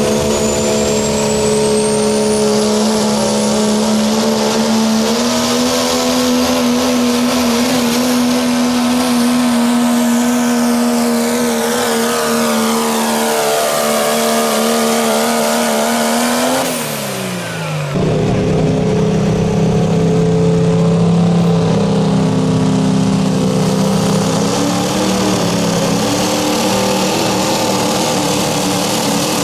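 Diesel pulling truck's engine held at full throttle at a steady high pitch during a pull. About 17 seconds in the engine pitch slides down and the level dips briefly, then a lower, rougher engine sound takes over.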